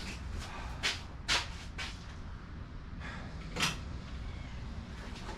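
Three or four short metallic clicks and clinks of a hand wrench and socket working the bolts on a differential cover.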